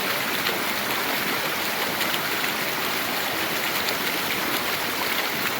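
Woodland stream rushing over rocks close by: a steady, even rush of water.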